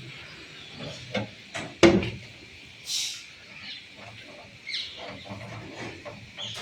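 Irregular knocks, clatters and short scrapes of construction work, the loudest knock about two seconds in, over a faint steady high hiss.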